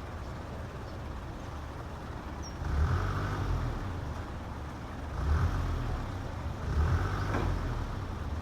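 Low background rumble that swells three times, about three, five and seven seconds in.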